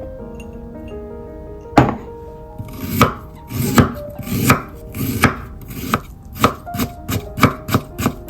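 Knife chopping on a cutting board: a single cut about two seconds in, then steady chops from about three seconds in that quicken toward the end.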